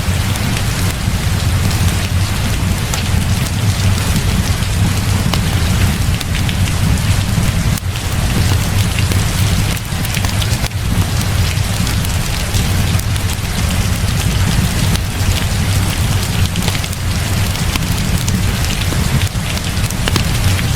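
Heavy rain falling steadily, a dense hiss with many small drop clicks over a constant low rumble.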